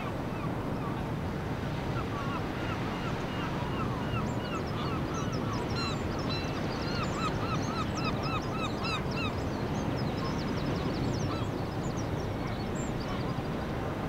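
Birds calling in quick repeated series over a steady low background noise, the calls thinning out near the end.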